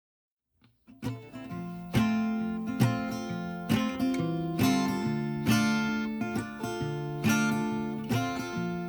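Background music: an acoustic guitar strumming chords about once a second, starting after a second of silence.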